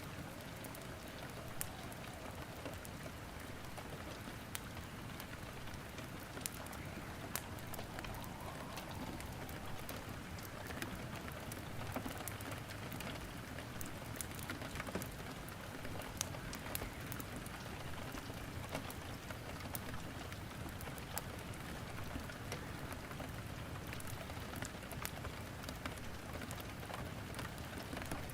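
Steady rain with scattered sharp crackles and pops of burning firewood in a fireplace.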